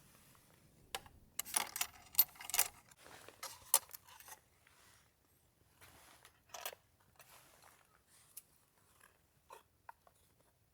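Rustling and light clicking of small things being handled close by, a dense crinkly flurry about a second and a half in, then scattered single clicks.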